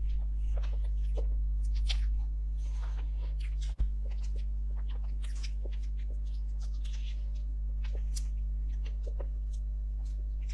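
Close-up eating sounds: small scattered clicks and soft smacks of someone chewing dessert, over a steady low electrical hum from the recording. The sound drops out for an instant with a click a little under four seconds in, like an edit cut.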